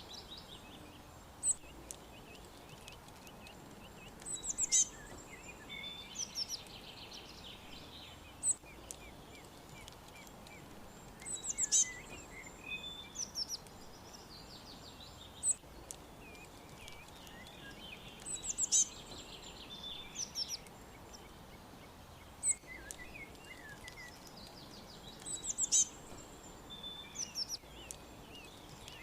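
Songbirds singing: clusters of high chirps, quick falling note runs and short trills. The same burst of song comes back about every seven seconds over a steady faint hiss.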